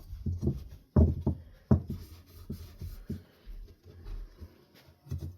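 A few sharp knocks and taps of ceiling fan parts being handled and set down, the two loudest about a second in and a moment later, with lighter handling noise between.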